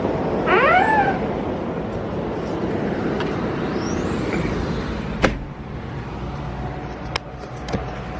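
A gull gives one arching cry about half a second in, over a steady rush of wind and street traffic. About five seconds in comes a sharp knock, and the background is quieter after it.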